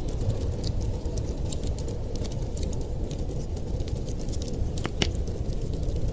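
Fireplace crackling: a steady low rumble of burning wood with scattered sharp pops and snaps, one louder pop about five seconds in.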